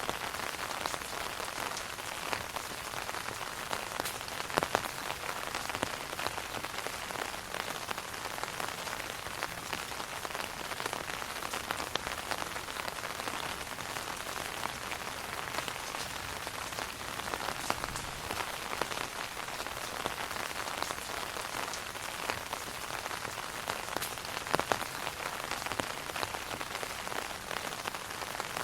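Rain falling on an umbrella canopy: a steady, dense hiss of many drops, with a few louder single drops standing out about five seconds in and again near the end.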